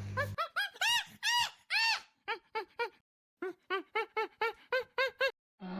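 Monkey calling: a rapid series of short, high-pitched squealing calls, each rising and then falling in pitch, with a pause of about a second midway.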